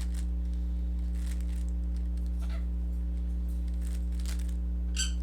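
Steady electrical hum, with faint scratchy plastic clicks from a Rubik's cube being turned and a sharper click near the end.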